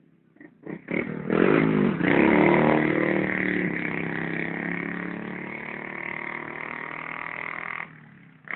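A motorcycle engine running close by. It comes in suddenly about half a second in, is loudest around two seconds, fades slowly and drops away near the end, then returns briefly.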